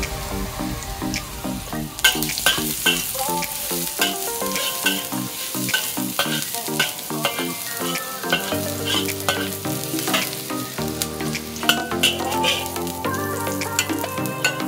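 Minced garlic and ginger sizzling in oil in a wok, with a metal spatula stirring them, under background music with a steady beat.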